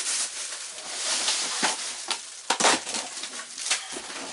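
Rustling and crackling of packaging being handled while saw accessories are unpacked, with a few sharper knocks about two and a half seconds in.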